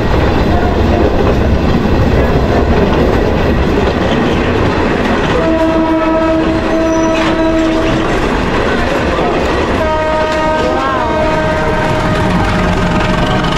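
Passenger train running on the rails with a steady loud rumble. Its horn blows twice: a held blast of about two and a half seconds starting some five seconds in, and a second, longer blast from about ten seconds in.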